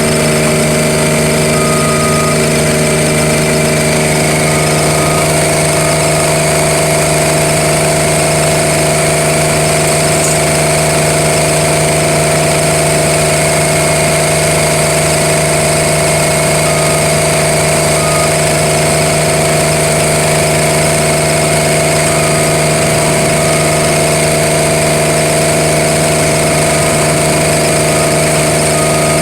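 Milling machinery running steadily at one constant speed: a loud, unchanging hum made of several fixed tones.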